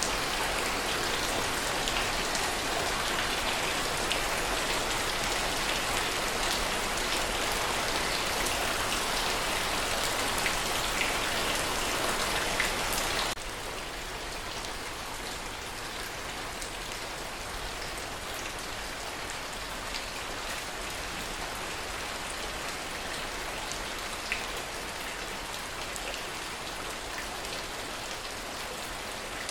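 Steady rainfall with scattered sharp drop impacts. About thirteen seconds in it steps down abruptly to a softer, quieter rain.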